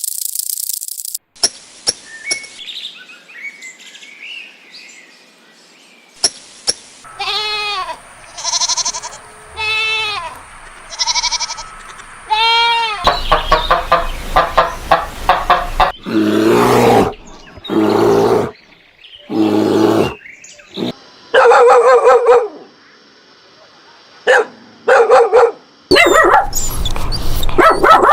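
Farm animals calling, in a run of short clips that change abruptly: a series of pitched calls, louder and fuller in the second half.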